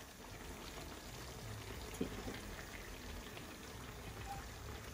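Faint sizzling of a pork and vegetable stir-fry in the pan, with a single light knock about two seconds in.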